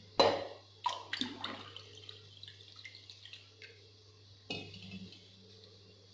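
Water being poured into a pressure cooker pot over sautéed vegetables, splashing in a few short pours, with a sharp splash at the start and another at about four and a half seconds.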